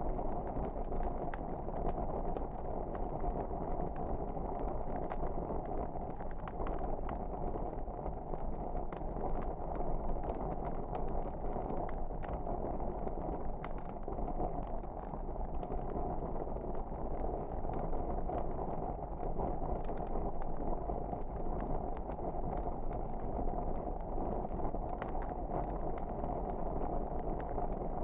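Wood fire crackling, with many small irregular snaps and pops over a steady low rush of burning.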